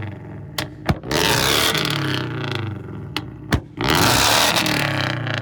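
Car engine revved hard twice, each rev about two seconds long and falling in pitch as it comes off the throttle, with sharp exhaust pops and bangs between the revs.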